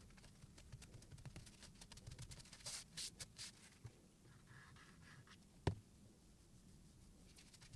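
Faint, light scratching strokes of a silicon carbide water stone drawn along a knife edge on a guided sharpener, with a sharp click a little past halfway.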